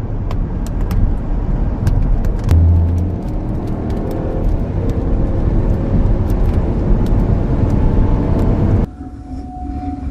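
Heavy rumbling wind and road noise inside a storm-chasing vehicle near a tornado, with scattered sharp ticks of objects striking the vehicle. About nine seconds in it cuts abruptly to a quieter scene with a steady single-pitched tone.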